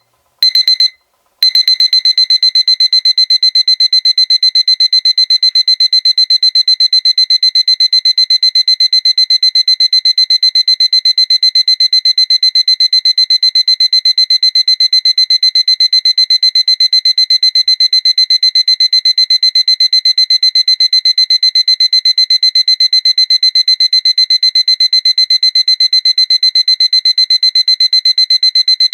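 Seiko electronic alarm clock sounding its high-pitched beeping alarm: a couple of short bursts of beeps, then from about a second and a half in a continuous, rapid beep-beep-beep that keeps going.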